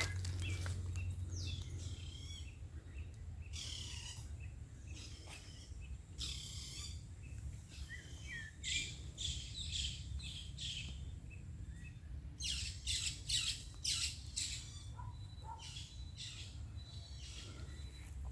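Wild birds calling, with clusters of quick high chirps that come and go, over a steady low hum.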